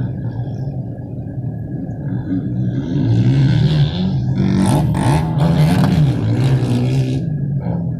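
Low, unsteady wind rumble on the microphone of a moving bike. A louder rushing noise swells from about three seconds in and fades near the end.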